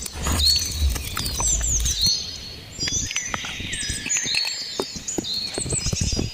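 Birds chirping with many short, quick swooping calls, over scattered sharp knocks and clicks and a low rumble in the first couple of seconds.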